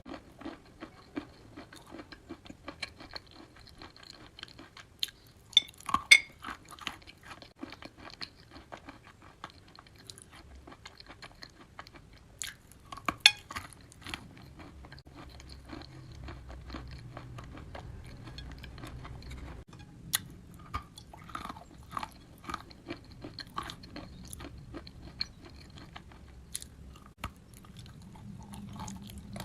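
Close-miked chewing of wet chalk: a steady run of irregular soft crunches, with sharp loud bites about six seconds in and again about thirteen seconds in.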